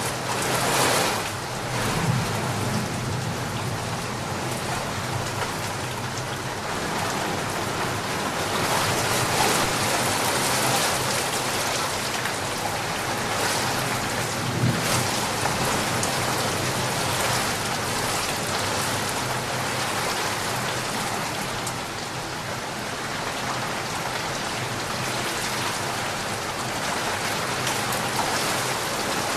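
Steady rain falling on a surface, an even hiss of drops, with brief low rumbles about two seconds in and about halfway through.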